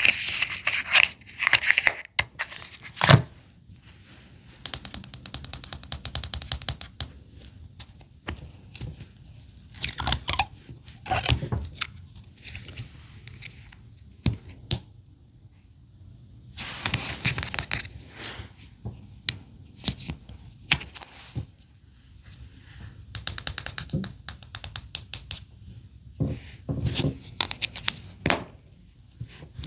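Small plastic wrappers on Mini Brands miniature toys crinkled and torn open in bursts, with sharp clicks and taps of small plastic pieces between pauses.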